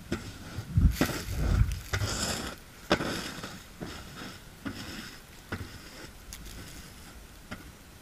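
Plastic snow shovel pushing and scraping snow: a run of scrapes in the first three seconds, then shorter scrapes and sharp knocks spread through the rest.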